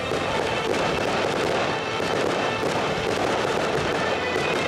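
Music playing over a fireworks display, with the pops and crackle of shells bursting.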